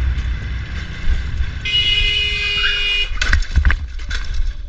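Steady low rumble of a moving motorcycle with road and wind noise, and a vehicle horn sounding once for about a second, a little under two seconds in. A few short clicks and knocks follow.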